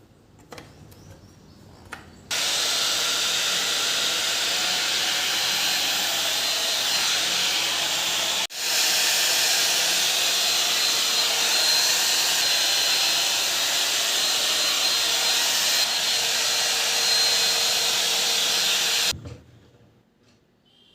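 A high-speed electric appliance motor running loudly and steadily with a faint whine. It switches on about two seconds in, cuts out for an instant partway through and starts again, then switches off near the end.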